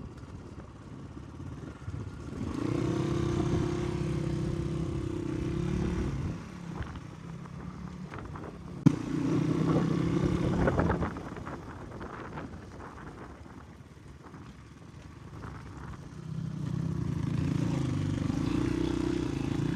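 Dirt-bike engine revving up and holding a steady pitch in three spells of a few seconds each, quieter in between, with a single sharp click about nine seconds in.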